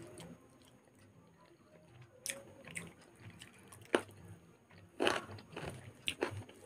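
Close-up chewing of a mouthful of rice eaten by hand, with several sharp wet mouth clicks starting about two seconds in.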